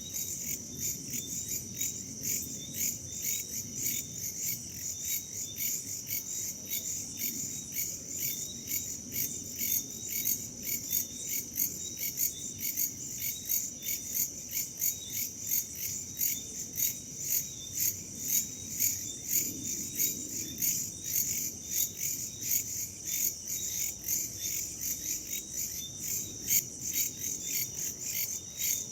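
Night chorus of crickets and other insects: a continuous high trill with chirps pulsing evenly several times a second, over a faint low rush of wind.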